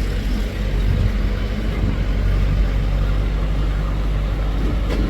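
Diesel engine of a backhoe or farm tractor running steadily at working speed.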